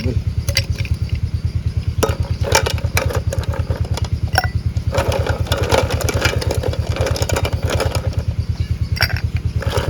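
A small engine running steadily, with a low, rapid, even thudding of about eight beats a second. A few sharp clicks and some clatter sound over it.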